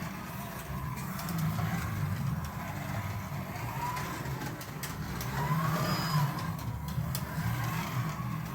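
Carrera Digital 132 1:32-scale slot car running laps on its track: a steady low hum with a motor whine that rises and falls as the throttle is worked, and scattered sharp clicks.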